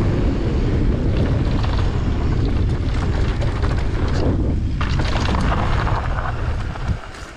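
Wind buffeting a mountain biker's camera microphone while riding a dirt trail, with tyre and trail rumble underneath. It drops away sharply near the end.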